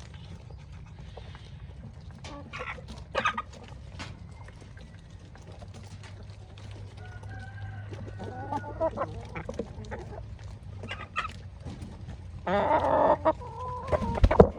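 Chickens clucking and calling while feeding, with scattered short taps. A louder call lasting about a second comes near the end.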